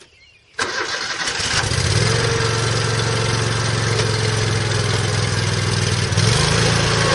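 Exmark Lazer Z 72-inch zero-turn mower's Kohler Command 27 hp V-twin engine starting up about half a second in and settling into a steady run, then running faster and louder about six seconds in.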